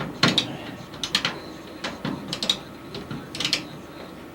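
Small hand ratchet clicking as it drives a screw into a furnace's filter access plate, in short bursts of clicks about once a second as the handle is swung back and forth.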